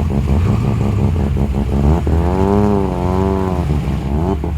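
Performance car engine idling with a lumpy, pulsing beat. About two seconds in, an engine note rises and wavers for nearly two seconds before dropping away.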